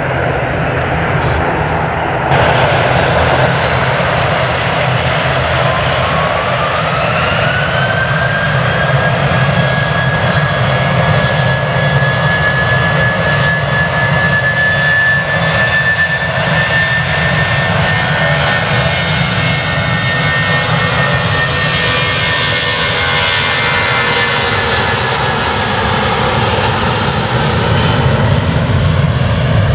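Jet airliner's engines spooling up to takeoff thrust on the departure runway: a steady rumble with a whine that rises about six seconds in and then holds high and steady, the pitch bending down near the end as the aircraft passes.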